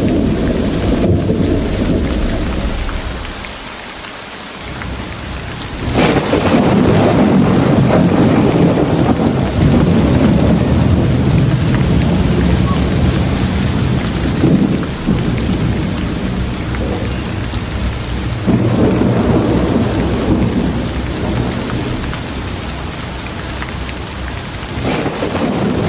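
Steady rain with rolling thunder: a loud rumble breaks about six seconds in and rolls on for several seconds, with further swells of thunder later.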